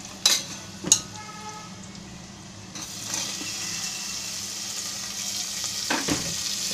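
Chopped onion frying in hot oil in a pressure cooker, sizzling, with a steel ladle knocking twice against the pot near the start and ringing briefly. About three seconds in, the sizzling grows louder as chopped tomatoes are tipped into the hot oil.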